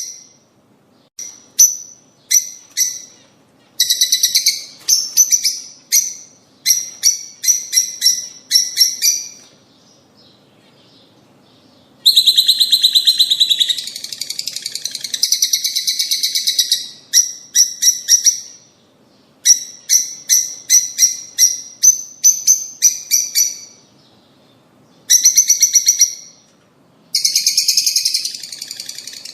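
Lovebirds calling: series of sharp, high chirps repeated in quick runs, with two longer stretches of fast, dense chattering, about twelve seconds in and again near the end.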